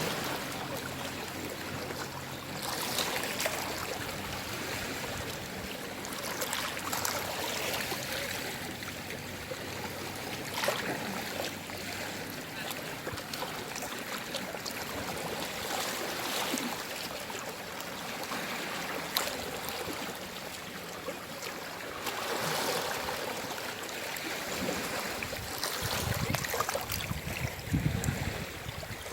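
Gentle sea waves lapping and washing ashore over a steady hiss of moving water, each wash swelling and falling away every few seconds. A few heavier, deeper washes come near the end.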